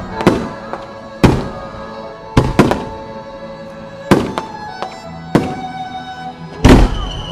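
Aerial firework shells bursting, about seven sharp bangs, the loudest near the end, over music playing.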